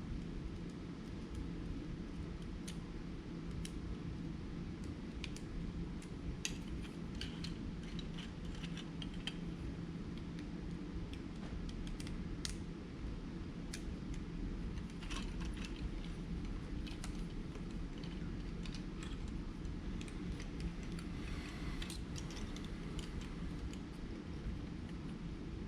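Scattered small clicks and taps of plastic model-engine parts and a small screwdriver being handled as connecting rods and caps are screwed onto a crankshaft, over a steady low hum.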